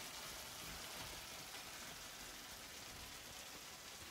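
Ground turkey, onion and garlic sizzling in a skillet: a soft, steady hiss.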